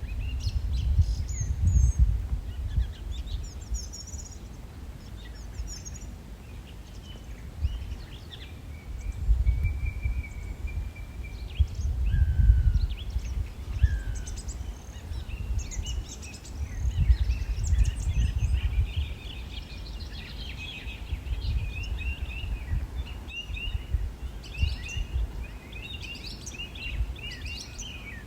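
Several songbirds chirping and trilling, busier toward the end, over a low rumble that swells and fades three times.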